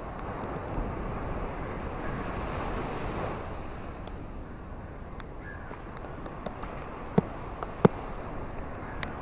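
Steady rain falling, with scattered sharp drops striking close by, two louder ones near the end.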